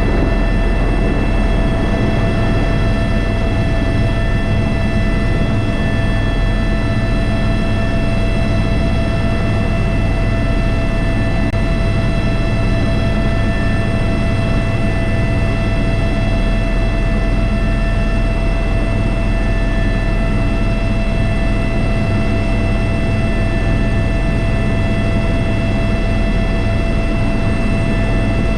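Airbus H125 (AS350 B3) single-turbine helicopter in flight, heard from inside the cockpit: a steady, loud rotor and turbine drone with a constant set of high whining tones over it, unchanging throughout.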